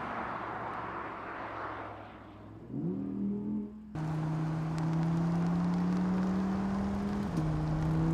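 Audi R8 Spyder's V10 engine. It starts as the car pulls away and fades, revs up briefly about three seconds in, and then after a cut runs steadily under way, with the open-roof cabin sound. Its pitch steps once near the end.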